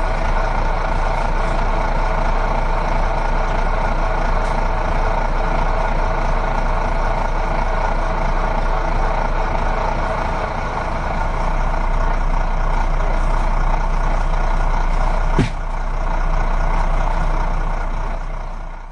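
Recycling truck running steadily, with one sharp click about fifteen seconds in. It fades out at the very end.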